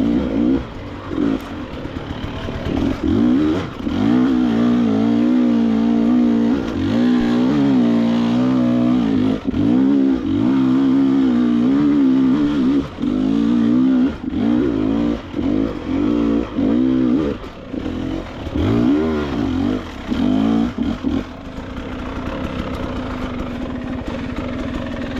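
KTM 300 XC-W two-stroke dirt bike engine working under throttle, revs rising and falling as the rider picks through the trail, with short choppy bursts of throttle in the middle. About twenty-one seconds in it settles to a steadier, lower note.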